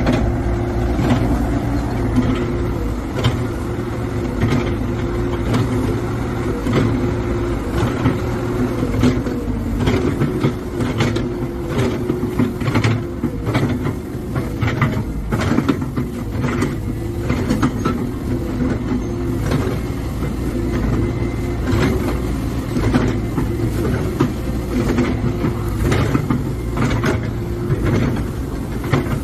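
Four-cylinder diesel engine of a CAT 314D excavator running steadily, with frequent sharp metallic knocks and clanks over it.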